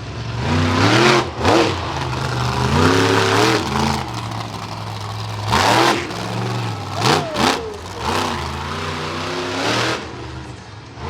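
Monster truck engine revving hard in repeated bursts, its pitch climbing and falling again and again as the throttle is worked.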